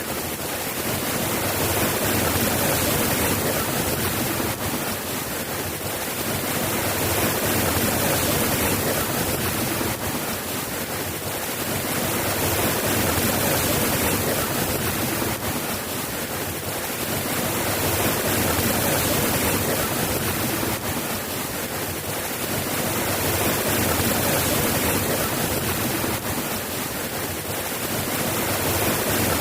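Steady rain ambience: a dense, even hiss of falling rain that swells and eases gently about every five seconds.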